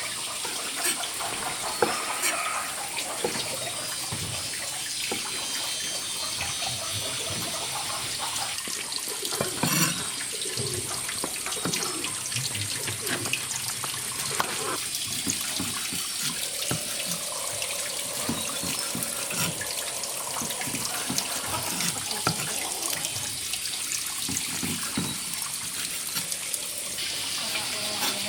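Water running steadily, with small splashes and knocks through it.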